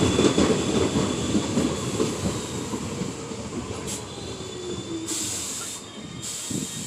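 R46 subway train running on the rails and fading away, its wheels giving a thin high squeal over a steady rumble. A brief hiss comes about five seconds in.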